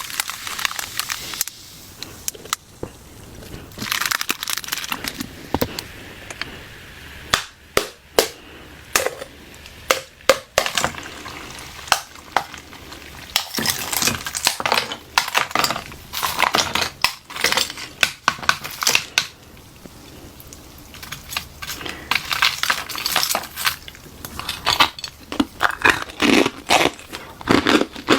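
Hollow ice shell, frozen inside a water balloon, being cracked and crushed: a long run of irregular sharp cracks and crackles, some louder than others.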